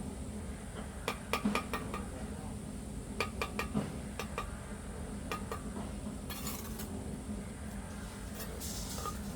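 Quick runs of light clinks and taps, hard objects knocking together, in three groups, then two short scraping sounds near the end, over a steady low hum.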